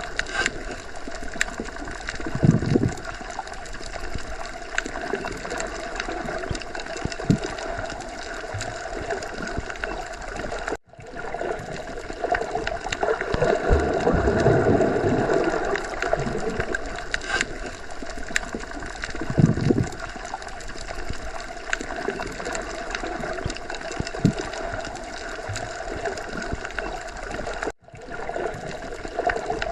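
Underwater sea ambience: a steady muffled wash of water with gurgling and low surging swells. It cuts out for a split second twice, about eleven seconds in and near the end.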